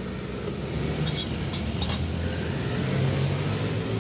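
A motor vehicle's engine running close by, its pitch rising in the second half as it pulls away. About a second in, three or four sharp clinks of a metal spatula against a steel wok.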